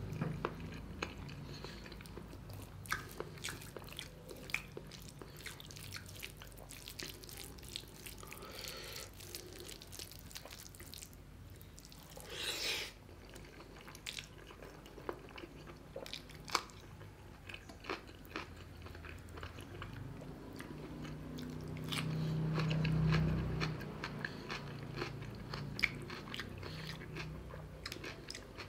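Close-miked wet chewing and mouth smacking as a mouthful of rice and chicken gizzard curry is eaten by hand, with many small sharp clicks. A short breathy rush comes about halfway in, and a louder low sound swells and fades about two-thirds of the way through.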